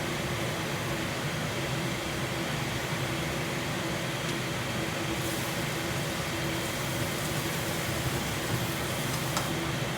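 Kitchen exhaust fan running steadily with a noisy, constant whir and hum.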